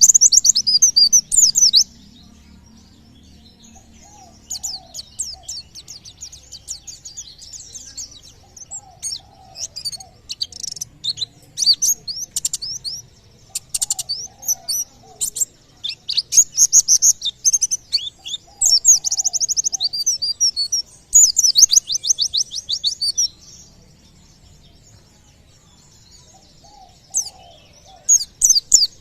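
A pleci (white-eye) singing: bouts of rapid, high twittering and fast trills broken by short pauses, the dense 'tembakan' song prized by keepers. A fainter, lower short call repeats every four or five seconds behind it.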